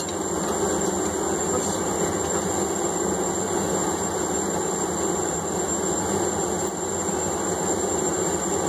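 Blacksmith's forge running steadily, a continuous roar of air and flame with no hammer blows, while the workpiece heats.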